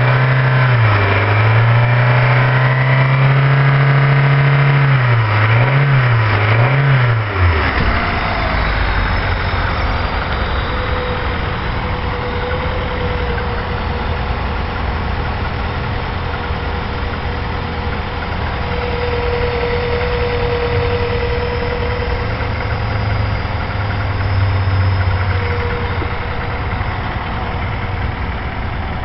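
Rover K-series four-cylinder petrol engine, running on its first start after a head gasket replacement. It is held at raised revs and blipped up and down a few times, then drops back about seven or eight seconds in and settles to a steady idle.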